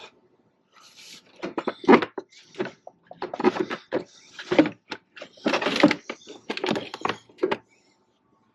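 Irregular clunking, knocking and scraping from parts and tools being handled in a truck's engine bay, in several clusters with short gaps, while a dropped part is searched for.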